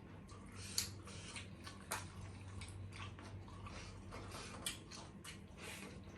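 Close-up eating sounds: scattered wet clicks and smacks of chewing food, with a few sharper ticks.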